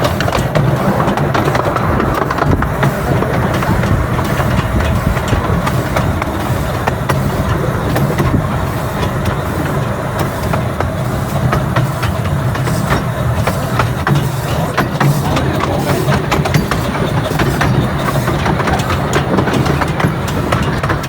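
Miniature railway train running, with a steady rumble and a constant rattle of short clicks from the wheels on the track.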